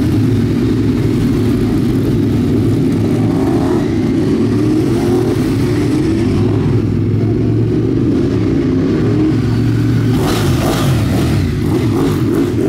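Ducati 848's V-twin engine running hard on track, its pitch rising and falling with the throttle.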